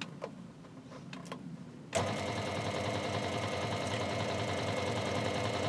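Workzone scroll saw starting up abruptly about two seconds in and then running steadily, after a few faint clicks.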